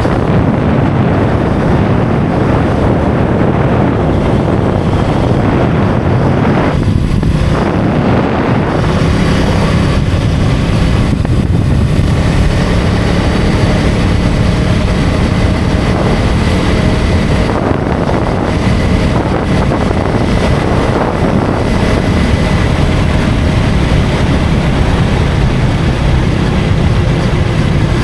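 Riding wind rushing over the microphone, with the KTM Duke 250's single-cylinder engine running steadily underneath.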